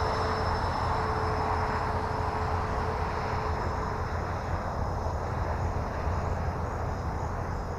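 Electric ducted fan of an E-flite F-15 Eagle RC jet in flight: a steady rushing hiss with a thin high whine. It fades slightly as the jet flies away.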